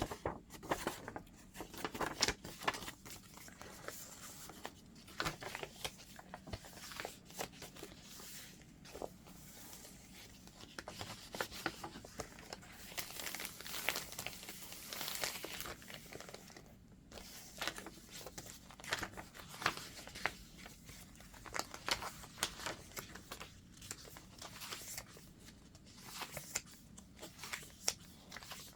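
Pages of a chunky handmade junk journal being turned and handled: paper rustling and crinkling in irregular bursts as mixed papers, pockets and tucks are flipped through.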